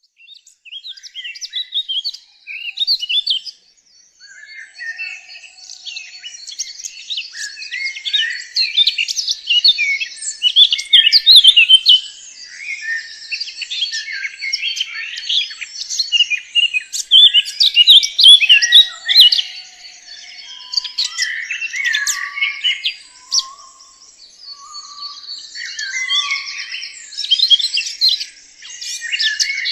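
Birds chirping and singing, many quick chirps and short trills overlapping in a dense chorus.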